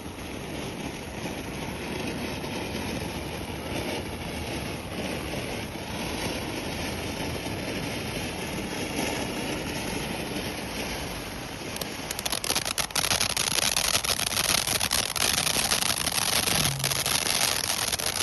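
Weco Vesuvio firework fountain spraying with a steady hiss; about twelve seconds in, a dense crackling effect starts and it gets louder.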